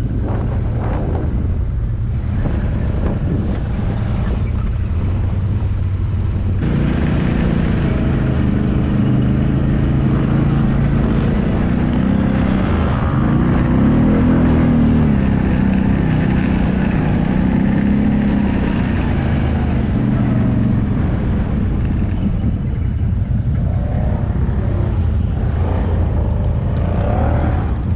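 Off-road vehicle engine running while riding. The sound grows fuller from about six and a half seconds in, and its pitch rises and falls with the throttle in the middle.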